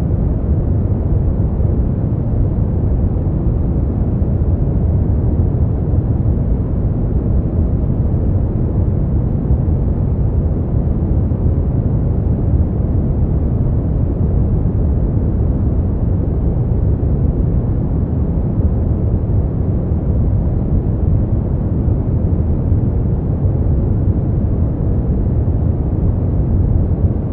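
Synthetic brown noise: a steady, deep rumbling hiss with most of its energy in the lows, unchanging throughout.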